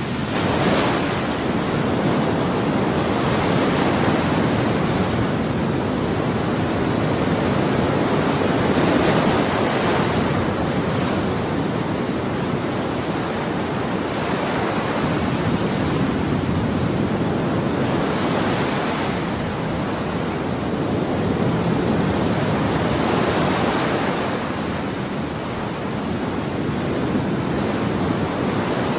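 Ocean waves: continuous surf washing, with waves breaking and swelling every few seconds.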